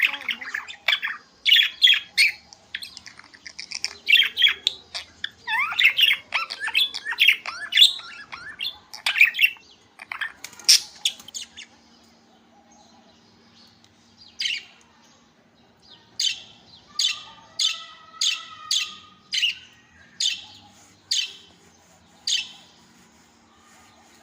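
Budgies chattering and squawking in a dense, busy run of quick calls for about ten seconds. After a short lull they give a string of single sharp calls, roughly one a second.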